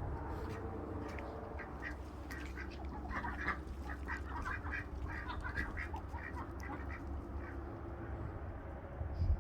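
Ducks quacking, a quick run of short calls that is busiest through the middle seconds, over a steady low rumble.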